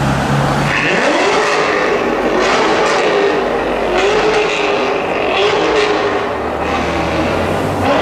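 A drag-modified Chevrolet Corvette's V8 revved up hard about half a second in and held at high revs, wavering, for about five seconds, then dropping back to a low idle rumble near the end.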